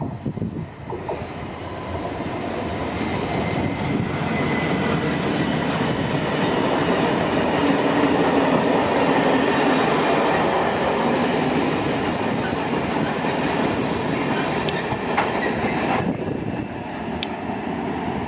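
Renfe freight train of steel-coil wagons, hauled by a class 256 electric locomotive, passing by with the rolling noise of wheels on rails. The noise builds up, is loudest mid-way, and drops off sharply near the end.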